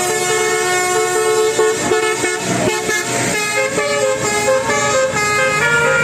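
A multi-tone musical vehicle horn playing a tune, its notes stepping up and down in pitch, with a brief noisy rush about halfway through.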